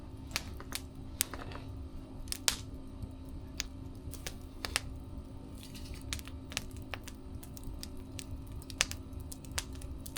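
Wood fire crackling, with irregular sharp pops over a low, steady rumble of burning.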